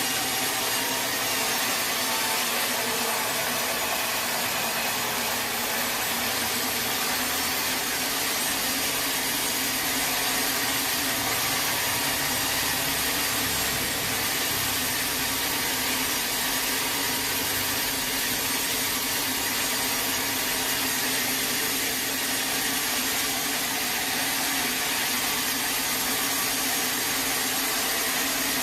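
Sawmill saw cutting lengthwise through a teak log, a steady, unbroken cutting noise.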